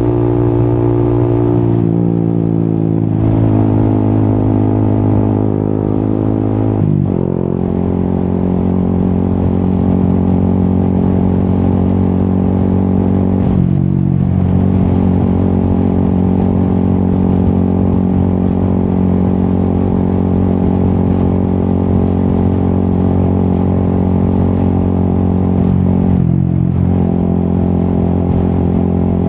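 Yamaha XSR 155's single-cylinder engine through an Akrapovic exhaust, running under way at fairly steady revs. The pitch dips briefly and shifts a few times, as with throttle lifts or gear changes.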